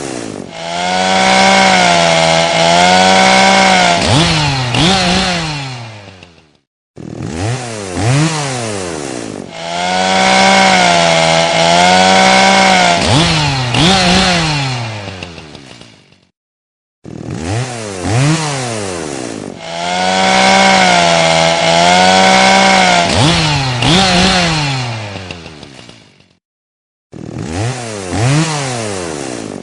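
Chainsaw revving up from low, running at full speed with its pitch wavering as it cuts, blipping twice and then dying away to silence. The same sequence repeats three times, about ten seconds apart, as a looped recording.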